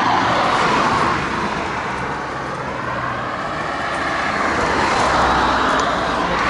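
Road traffic: cars passing by, their tyre and engine noise swelling and fading, loudest near the start and again about five seconds in.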